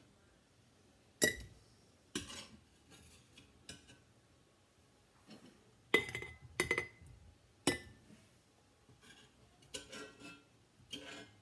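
A scoop clinking against glass canning jars as chunks of pork are spooned in: a run of sharp, ringing glass clinks, about five louder ones among softer taps and clatter.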